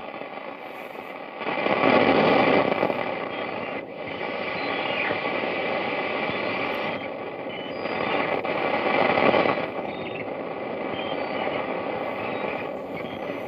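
Harsh electronic noise from effects pedals: a dense hiss that swells loudly about two seconds in and again around eight to nine seconds, with scattered short beeping tones. Near the end a tone falls in steps.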